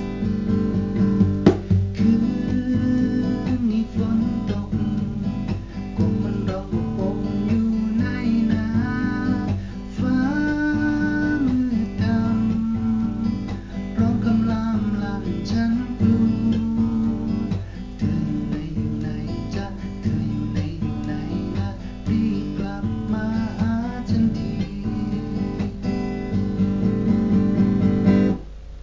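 Acoustic guitar playing a beginner's single-line melody with plucked notes over low bass strings, no chord strumming.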